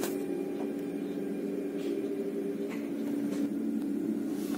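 Steady electric hum inside the passenger car of an ED160 electric multiple unit train, with a few faint ticks.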